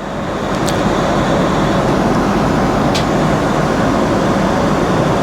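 Steady rushing cabin noise of a Boeing 777 in cruise: engine and airflow noise, with two faint ticks, one near the start and one about halfway through.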